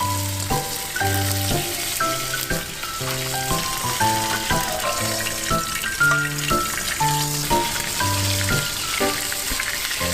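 Food sizzling and frying in a hot pan, a steady crackling hiss, with background music playing a bouncy melody and bass line over it.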